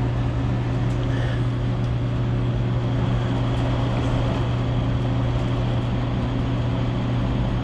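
Furnace's belt-driven blower motor running with a steady electric hum, its bearings just given a few drops of oil.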